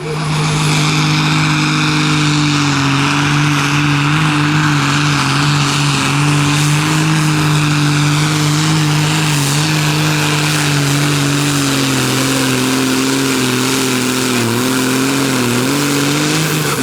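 Competition pulling tractor's engine running flat out at a steady high pitch under heavy load, dipping slightly and wavering in the last few seconds.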